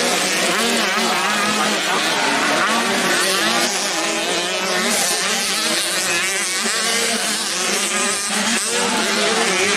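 Several 85cc motocross bikes racing, their engines revving up and down over one another in overlapping rising and falling pitches.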